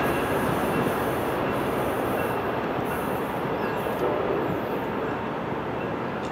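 A train running along the tracks: a steady rumble and rush of wheels on rail, slowly fading as it moves away.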